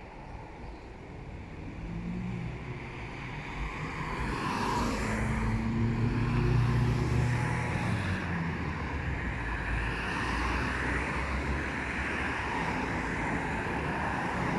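Low rumble of a motor vehicle's engine over a wash of outdoor noise, growing louder over the first few seconds and then holding steady.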